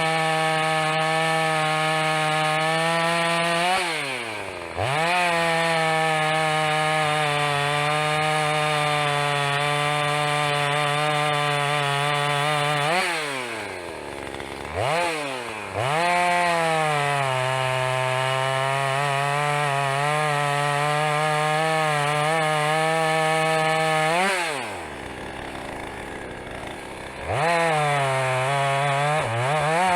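Two-stroke chainsaw running at full throttle, likely cutting firewood. The revs drop to idle and rise again three times: about four seconds in, around thirteen seconds with a short blip of throttle, and around twenty-five seconds.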